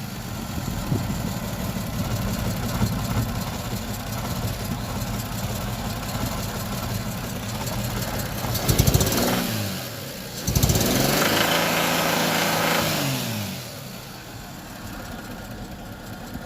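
Toyota 2JZ-GE straight-six engine idling with a knock whose cause the owner is asking about. It is blipped once about 9 s in, then revved and held from about 10.5 s before dropping back to idle near 13.5 s.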